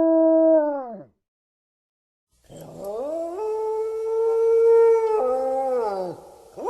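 Canine howling, wolf or dog: one long steady howl slides down in pitch and stops about a second in. After a short silence a second howl rises, holds, and falls away near the end.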